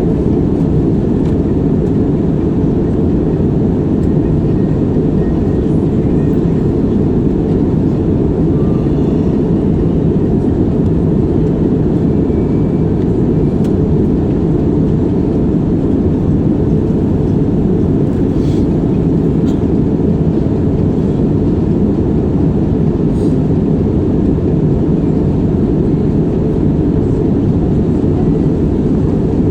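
Steady low rumble of airliner noise, the engines and airflow heard as unchanging cabin noise during the approach.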